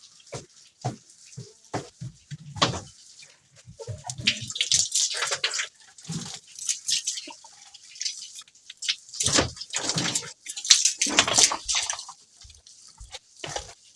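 Water splashing and dripping in irregular bursts, with scattered clicks and knocks.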